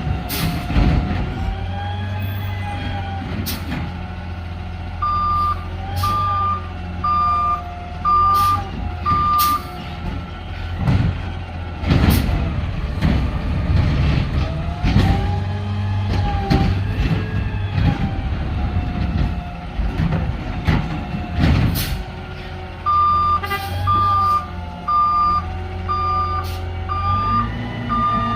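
Garbage truck running, its engine note rising and falling, with sharp metallic bangs scattered through. Its backup alarm beeps about once a second for a few seconds near the start and again near the end.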